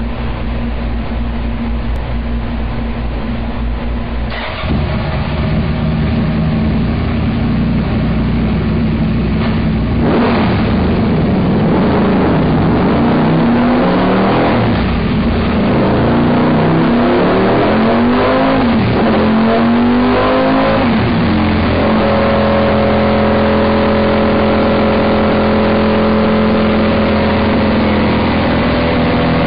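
Ducati Desmosedici V4 engine through a full race exhaust, running steadily at first, then revved up and down several times with the pitch rising and falling, and then held at a steady higher speed.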